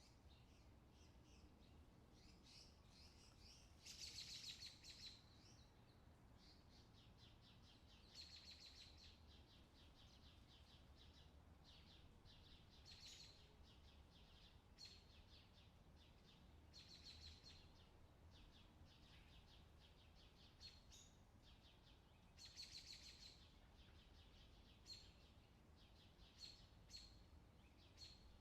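Faint outdoor summer ambience: small birds chirp and trill now and then, with the strongest trills about four seconds in and again past twenty seconds, over a steady low rumble.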